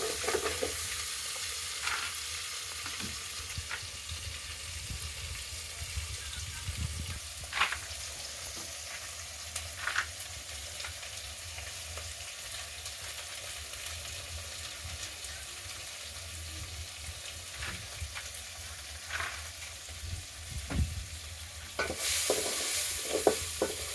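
Food frying in a pan with a steady sizzle, broken by a few sharp clicks. The sizzle grows louder near the end.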